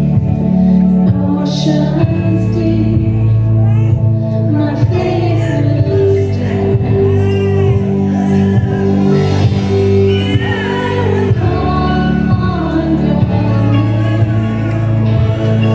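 Church worship music: a live band with voices singing a hymn in a large room.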